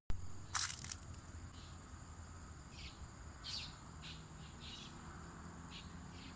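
Tropical forest ambience: birds giving short chirps about once a second, over a steady high-pitched insect drone. A brief loud burst of noise comes about half a second in.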